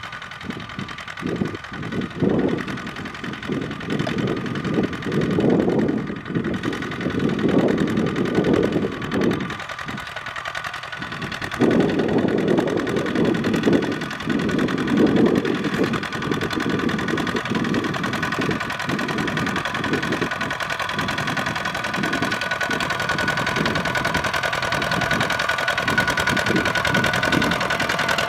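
Small Kubota tractor's diesel engine running as it plows, its low note swelling and dipping with the load. A steady high whine runs above it and grows stronger near the end.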